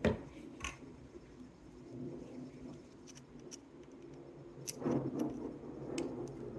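Scattered light clicks and taps, with a brief muffled rustle about five seconds in: small soldered minibadge circuit boards being handled and set down on a workbench.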